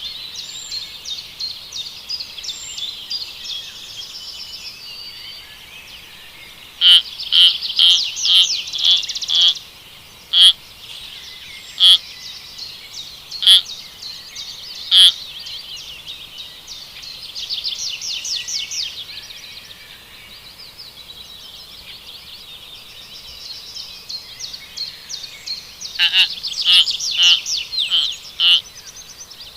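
High-pitched chirping animal calls over a steady background chatter. A quick run of loud, sharp calls comes about seven seconds in, then single calls about every second and a half, and another run near the end.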